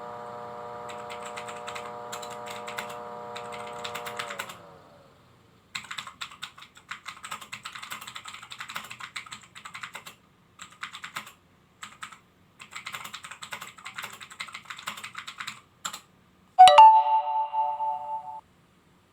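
Bursts of rapid clicking, like typing on keys, after a steady electrical hum that winds down and stops about four seconds in. Near the end comes a sharp knock followed by a short ringing tone.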